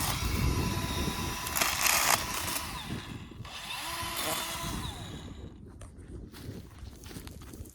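A power tool running, fading out about five and a half seconds in.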